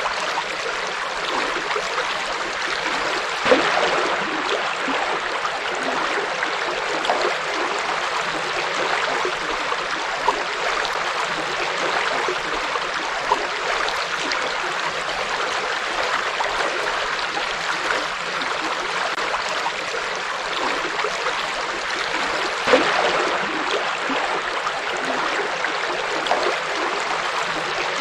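Forest river flowing over stones, a steady rush of water with small gurgles and splashes here and there.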